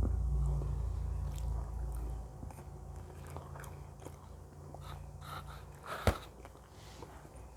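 Biting into and chewing the cheese-stuffed crust of a pizza slice close to the microphone, with soft mouth clicks throughout. A low hum fades out in the first two seconds, and one sharp click about six seconds in is the loudest sound.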